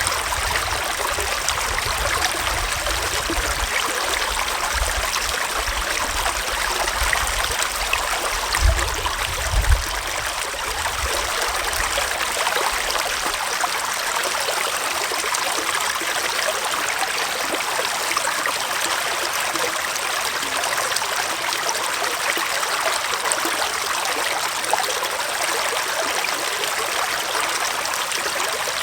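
Small forest stream flowing and trickling steadily over stones. A low rumble sits under it for the first twelve seconds or so, with two brief thumps about nine and ten seconds in.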